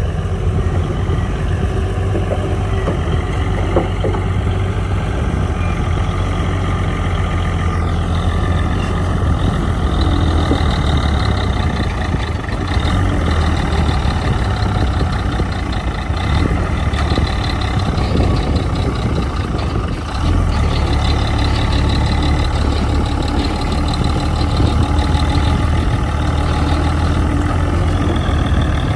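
Heavy diesel earthmoving engine running steadily under load, with a deep hum. Higher whining tones join in about eight seconds in.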